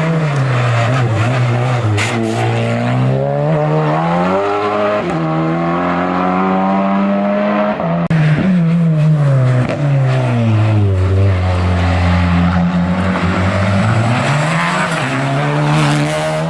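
A race car's engine revving hard up a hill-climb course. Its pitch falls twice as the car slows and shifts down for corners, and each time it climbs again as the car accelerates away.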